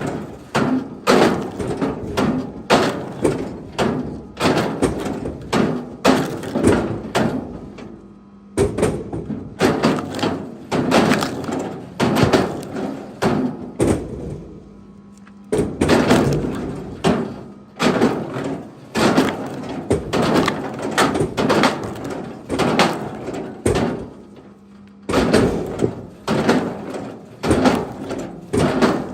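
Repeated thuds and cracks of wood being struck, in runs of sharp blows about one or two a second with short pauses between runs.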